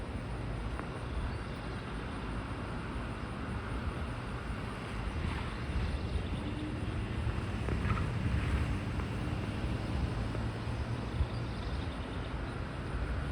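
Steady low rumble of background noise that swells slightly in the middle, with a few faint, short sounds over it.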